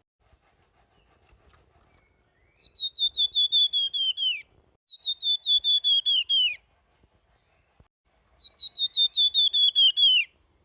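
Flamboyan songbird singing its whistled 'nyuling' song: three trilled phrases of rapid, high notes, each about two seconds long and sliding down in pitch at the end.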